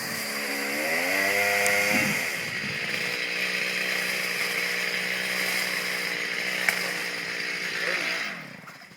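Chainsaw engine revving up over the first two seconds, running steadily at speed, then winding down with falling pitch and stopping near the end.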